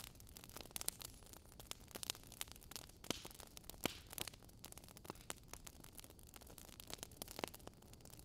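Wood fire crackling in a fireplace: irregular pops and snaps over a soft, steady hiss, with a couple of louder pops about three and four seconds in.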